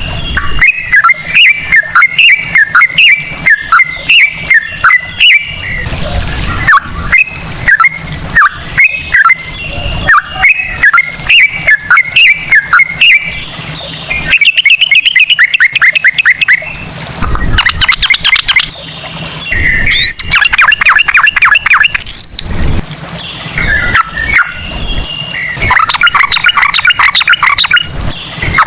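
Yellow-vented bulbul (trucukan) song: a loud, quick string of short whistled notes, giving way about halfway through to several fast rattling trills separated by brief pauses.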